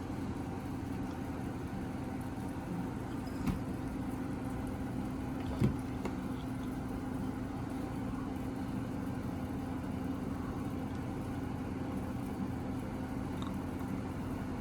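Window air conditioner running with a steady hum. Two short knocks about three and a half and five and a half seconds in, the second the louder.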